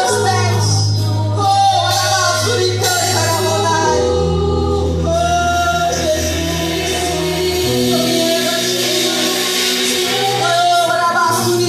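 Gospel worship music with singing over a band, the bass holding long notes that change about four seconds in and again near eight seconds.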